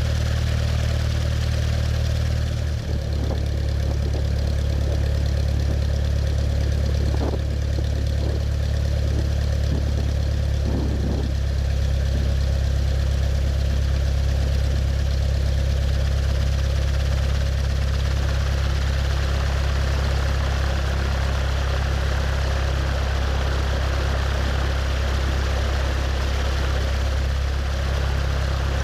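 Cessna 172's piston engine and propeller running steadily at low power, an even low drone, with a couple of faint brief knocks in the first third.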